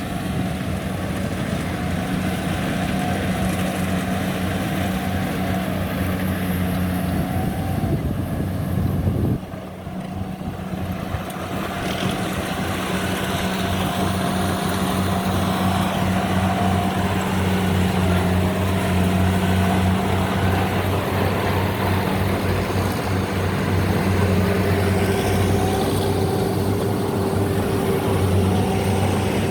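Diesel engine of a rice combine harvester running with a steady hum. It drops away abruptly about nine seconds in and builds back up over the next few seconds.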